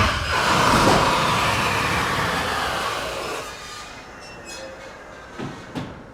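A loud rushing noise that slides down in pitch and fades away over about four seconds, followed by two faint knocks near the end.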